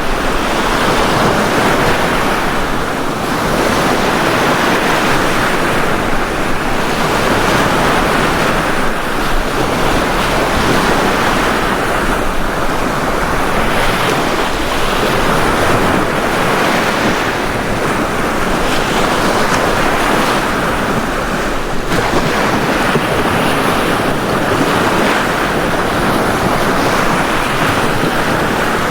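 Ocean surf washing onto a beach, a steady dense rush that swells and eases every few seconds as waves come in.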